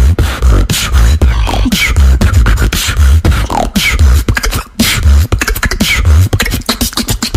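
Beatboxing: a steady vocal-percussion groove of deep kick sounds about twice a second, hissing snare strokes and short falling pitched sounds, with a brief break a little past halfway.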